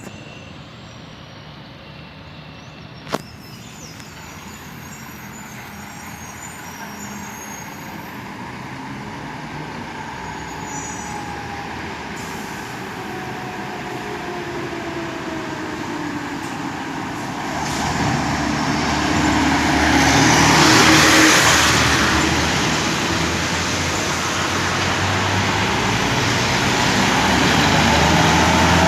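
A Scania G420 truck approaching and passing, its engine and tyre noise growing steadily louder over some twenty seconds, loudest about twenty-one seconds in. The engine note slides down in pitch as it nears.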